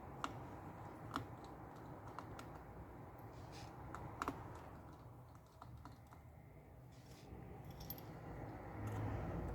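Scattered light clicks and taps of small repair tools handling an iPad's internal parts, a few seconds apart, over a low background hum.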